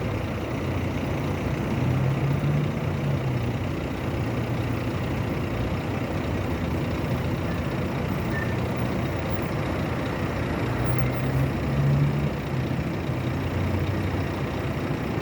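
Diesel engine of a Scania K450 bus chassis running low and steady, swelling in level twice before settling back.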